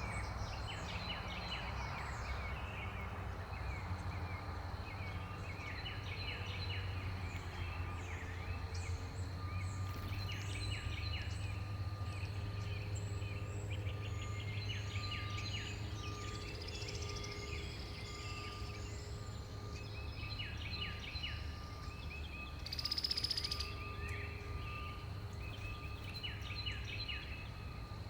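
Many small songbirds chirping and calling in quick short notes, over a steady low background rumble. A brief louder rush of noise comes about two-thirds of the way in.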